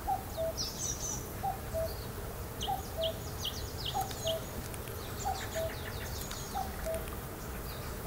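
Forest birdsong: a low two-note call repeated about once a second, seven times, with quicker high chirps from other birds over it.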